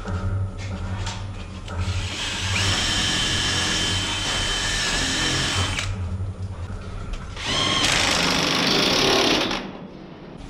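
Cordless power drill/driver running fasteners in, in two long runs, the second shorter, with a short pause between them.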